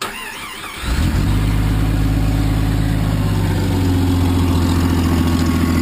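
A 1994 Jeep Grand Cherokee's inline-six engine catches about a second in and then idles steadily and loud through a leaking exhaust. The owner puts the leaks at the manifold gasket, a cracked header and the muffler.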